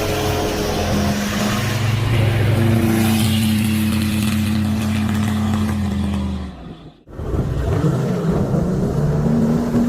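An engine or motor running steadily. It fades out briefly about six and a half seconds in, then starts again.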